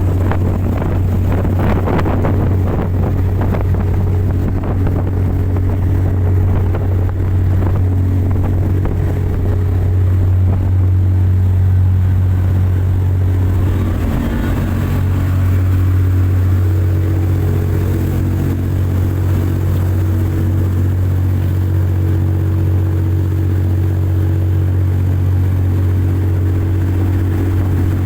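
Speedboat engine running steadily at high speed, a deep even drone, with a few brief rushing sounds near the start and about halfway through.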